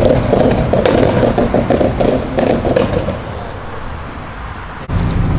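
A car's exhaust pops and crackles in a rapid, irregular string for about three seconds, then dies away. Near the end an engine is heard running again.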